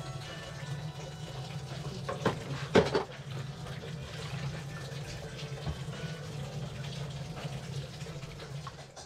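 Water sloshing and splashing in a filled washbasin as a skein of alpaca yarn is squeezed under the water and lifted out, with one sudden louder sound nearly three seconds in.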